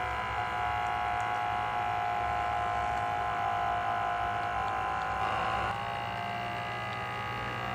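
Portable espresso machine's pump buzzing steadily as it pushes heated water through the coffee during hot extraction. The sound changes a little about five seconds in and cuts off suddenly near the end, as the brew finishes.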